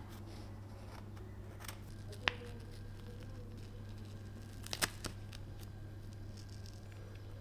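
Steady low hum with a few faint, isolated clicks: one sharp tick about two seconds in and two more close together near five seconds.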